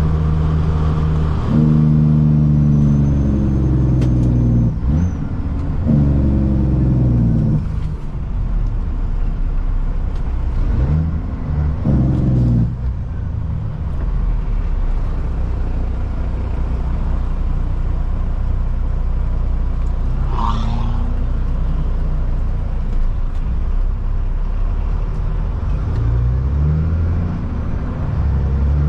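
Caterpillar C-15 inline-six diesel in a Kenworth truck, heard from inside the cab while pulling through the gears. The engine note climbs and drops back at each gear change, several times in the first dozen seconds and again near the end, with a steadier low drone in between. A short hiss comes about two-thirds of the way through.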